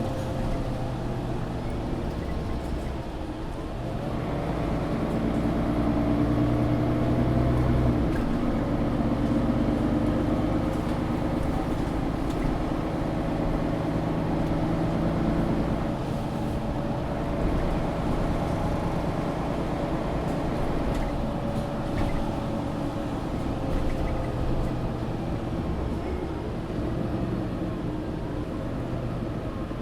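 Mercedes-Benz O530 Citaro G articulated city bus heard from inside while driving: the diesel engine runs under a haze of road and tyre noise. Its note rises as the bus accelerates and changes pitch about eight seconds in, then stays fairly even.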